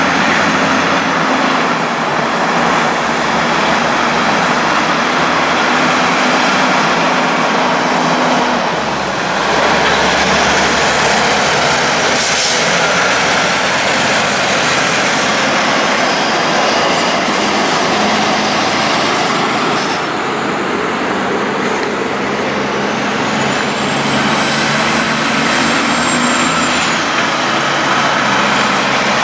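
Heavy haulage trucks running at road speed: a loud, steady drone of diesel engines and tyre noise, the engine note shifting a couple of times.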